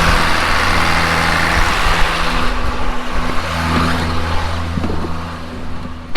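Irrigation pump engine running steadily at speed, with a rushing hiss over it. A vehicle door slams shut right at the end, muffling the hiss.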